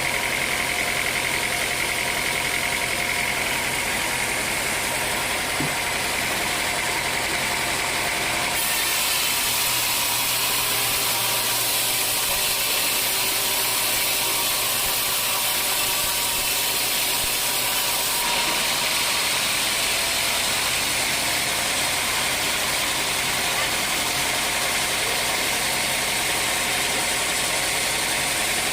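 Sawmill machinery running steadily while sawing dry old teak. For about ten seconds in the middle the sound changes to a hissier, less rumbling tone, then goes back to the earlier steady drone.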